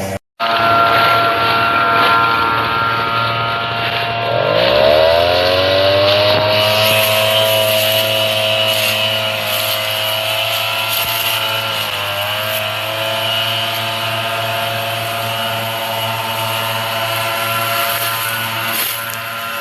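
Multirotor drone's motors whining: the pitch rises about four to six seconds in as the motors speed up, then holds a steady hum with a brief dip about twelve seconds in.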